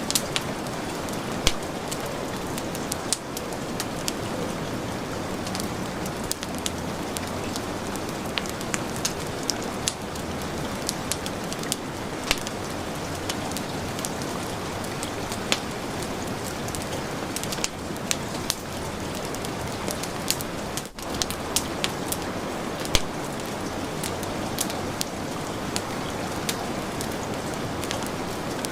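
Steady heavy rain hiss blended with a crackling wood fire, with frequent sharp pops and snaps scattered through it. The sound dips for an instant about two-thirds of the way through.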